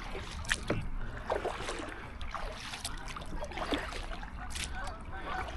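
Paddle strokes from a double-bladed paddle on a solo canoe: irregular splashes and drips of water off the blades. Geese begin honking near the end.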